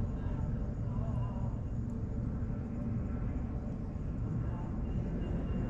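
Steady low rumble of city traffic, with faint voices in the mix.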